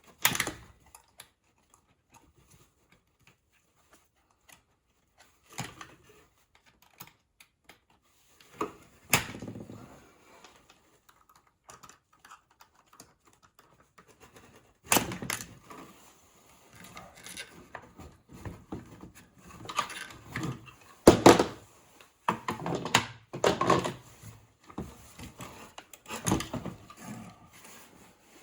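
Irregular knocks, clunks and rattles of a Bissell floor scrubber's parts and tools being handled as the machine is taken apart. The knocks come scattered, busiest in the second half, and the loudest lands a little past twenty seconds in.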